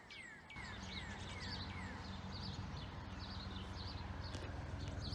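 Small birds calling in quick repeated falling chirps, with a helicopter's steady low drone coming in about half a second in and slowly growing louder.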